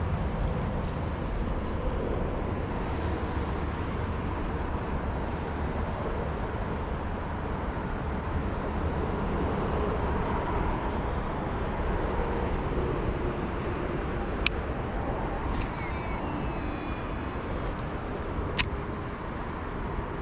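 Steady outdoor background rumble, heaviest in the low end, with two sharp clicks in the second half and a few faint high chirps between them.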